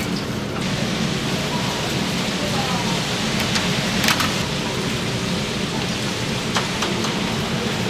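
Chicken deep-frying in hot oil: a steady sizzle with a few sharp crackles, the loudest about four seconds in.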